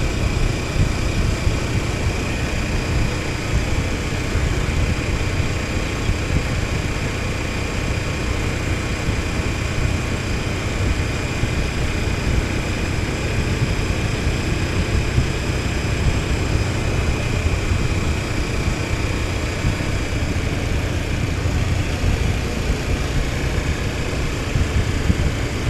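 KTM 1290 Super Adventure S's V-twin engine running at a steady pace while riding, an even low rumble with no sharp revving.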